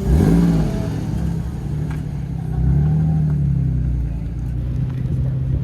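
Car engine revved up sharply right at the start, then held at a raised, steady speed, with a second swell in engine speed about two and a half seconds in.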